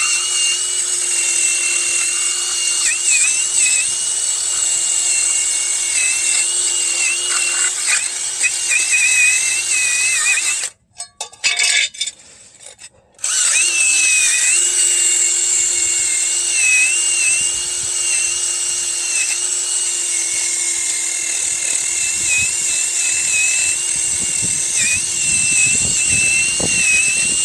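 Handheld power tool running hard as it scrubs grime off a truck's brake dust shield, its motor pitch dipping whenever it is pressed in, over a loud high scrubbing hiss. It stops briefly for a couple of seconds just before the middle, then runs again.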